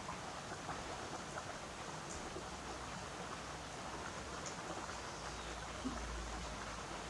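Steady rain falling, with scattered drops tapping. A low rumble comes in about five seconds in and fades out near the end.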